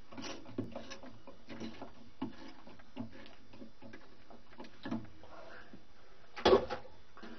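A 1/2-inch socket ratchet clicking in a steady rhythm, about two to three clicks a second, as it tightens the center bolt that holds the washing machine agitator down. A louder clunk comes near the end.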